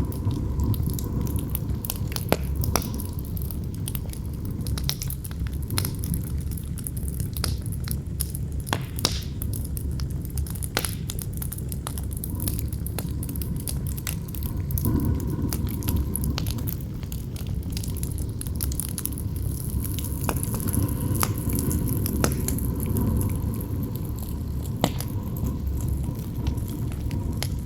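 Campfire burning with irregular sharp crackles and pops from the wood, over a steady low rush of strong wind.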